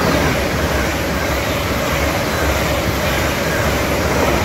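LNER Azuma high-speed train passing through the station without stopping: a loud, steady rush with a deep rumble underneath.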